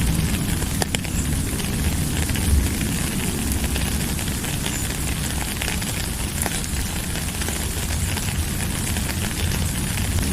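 Steady rain falling: an even hiss with a low rumble underneath and scattered sharp ticks of individual drops.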